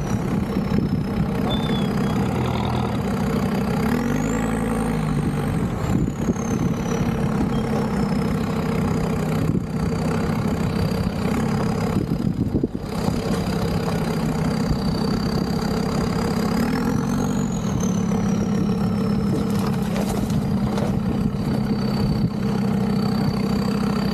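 Land Rover Discovery 2 Td5 five-cylinder turbodiesel pulling slowly along an off-road lane. The revs pick up twice, about four seconds in and again after about seventeen seconds, with a high whine that rises and falls with them. A few sharp knocks come near the end.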